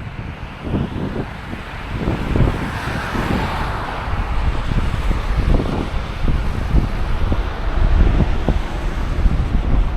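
Wind buffeting the microphone in gusts, with road traffic hiss from a passing vehicle swelling and fading about three seconds in.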